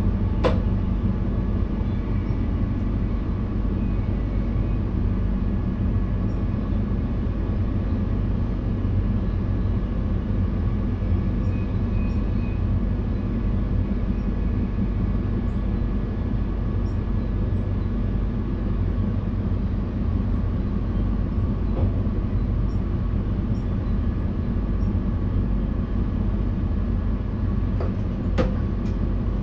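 Running noise inside the driver's cab of a VIRM double-deck electric train: a steady low rumble of wheels on rail with a faint steady hum, and a few sharp clicks about half a second in and again near the end.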